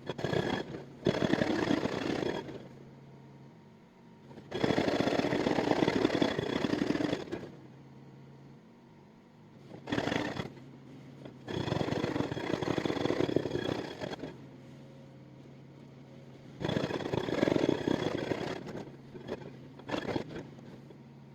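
Excavator-mounted hydraulic breaker hammering in bursts of rapid blows lasting two to three seconds, about four long bursts with a couple of short ones between. In the pauses, the excavator's engine hums steadily.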